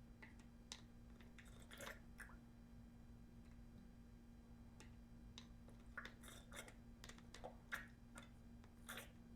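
Near silence over a steady low hum, broken by scattered faint clicks and light scrapes of small things being handled, busiest about two seconds in and again through the second half.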